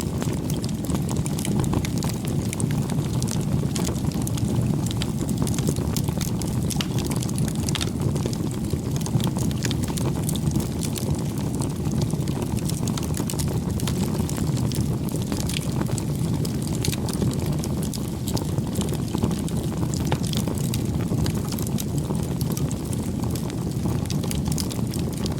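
Campfire burning: a steady low rush of flames with many small, irregular crackles and pops from the burning wood.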